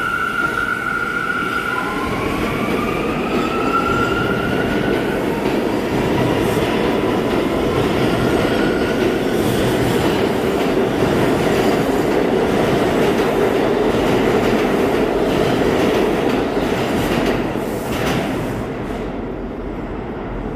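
New York City subway train running through the station, with wheels rumbling and clattering on the rails. A high whine rises in pitch over the first few seconds, and the rumble eases off near the end.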